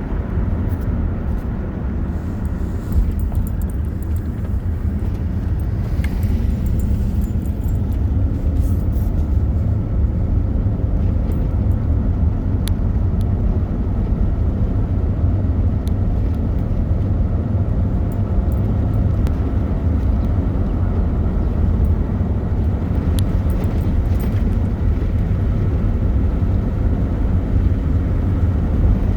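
Motor vehicle driving along a road: a steady low rumble of engine and road noise, with a few faint clicks.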